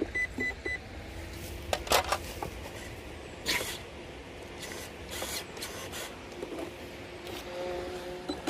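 Three short, quick high-pitched electronic beeps at the start, followed by scattered light clicks and knocks of handling, with a faint steady hum in the second half.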